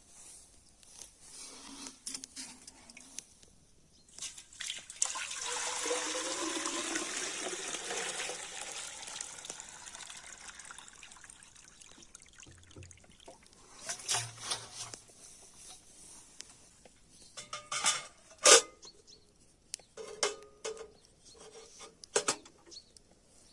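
Liquid being poured into a vessel for about five seconds, with the pitch shifting as it fills. Later come a few sharp knocks and clinks of kitchen utensils.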